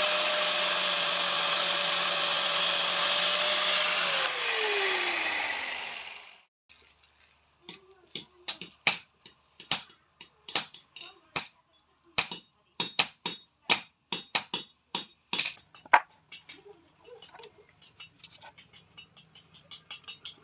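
An electric power tool runs steadily, then is switched off and winds down with a falling whine. After a short pause a hammer strikes metal about twenty times, two to three bright ringing blows a second, then lighter taps near the end.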